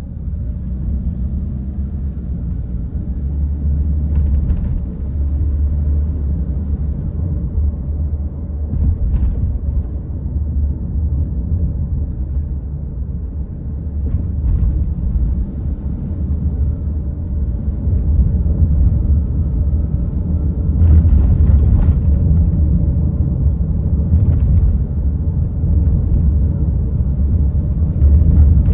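A car being driven: steady low road and engine rumble, with a few faint taps now and then.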